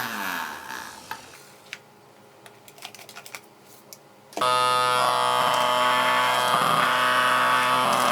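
Small DC motor of a homemade vacuum cleaner winding down as it is switched off, then a few light clicks, then the motor starting abruptly again a little over four seconds in and running steadily with a high whine.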